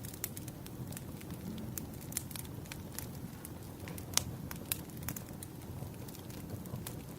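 Campfire crackling: a steady low rumble of burning wood with irregular sharp pops and snaps, the loudest about four seconds in.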